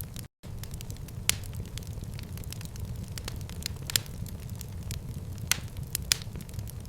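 Fireplace fire crackling: frequent sharp pops and snaps over a steady low rumble, cutting out to silence for a split second just after the start.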